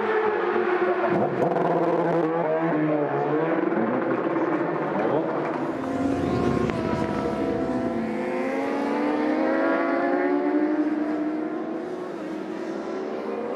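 Racing motorcycle engines at high revs, several at once, their pitch climbing and dropping through gear changes as the bikes pass.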